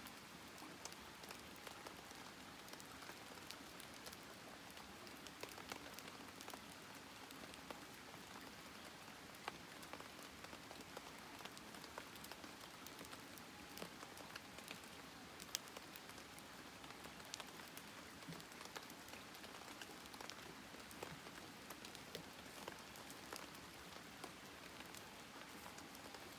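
Faint wood campfire crackling: a soft steady hiss with scattered small pops and snaps at irregular times.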